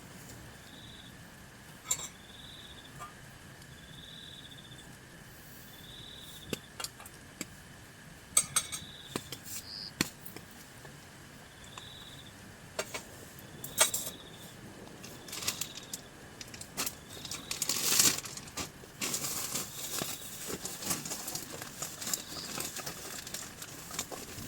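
Scattered sharp clicks and taps, thickening into a busy rustling clatter in the last few seconds, over a faint high chirp that repeats about once a second.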